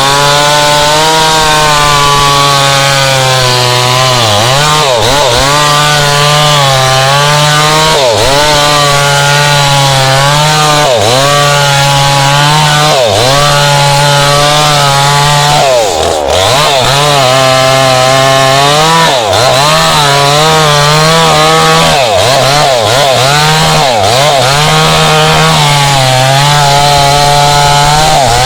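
Tanika MS 5800 two-stroke chainsaw running at high revs while cutting wood, its engine note sagging under load every few seconds and recovering, with one deeper drop about halfway through.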